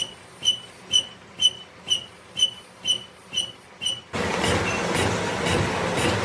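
A rotating part of a workshop lathe squeaks evenly, about twice a second. About four seconds in, a louder steady running noise with a hum starts up under it.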